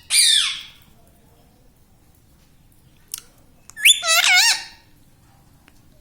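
Indian ringneck parrot giving two loud, harsh calls: a short falling one at the start and a wavering one about four seconds in, with a brief click just before the second.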